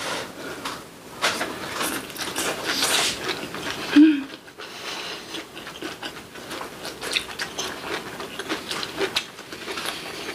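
People chewing braised kimchi and rice: wet mouth clicks and smacks, densest in the first few seconds. There is a short low hum from the voice about four seconds in.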